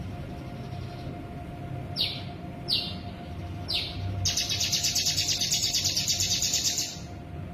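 Crimson sunbird singing: three short, high notes sliding downward, then a fast rattling trill of about eight pulses a second lasting nearly three seconds and stopping abruptly. This rapid trill is the 'konslet' song style prized by Indonesian songbird keepers.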